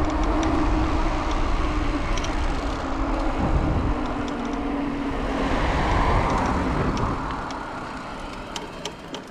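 Steady rush of wind and road noise with a low hum, dying away over the last few seconds as the ride slows, with a few faint ticks near the end.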